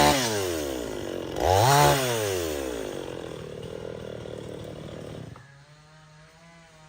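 Two-stroke chainsaw revving up once and winding back down. About five seconds in, the level drops abruptly to a quieter, steady low running tone.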